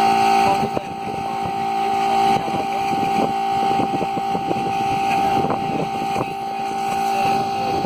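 Air compressor running with a steady hum, with irregular short knocks and splutters over it.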